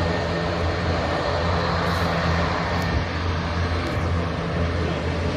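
Jet airliner engines giving a steady rumble with a broad roar over it, without rising or falling.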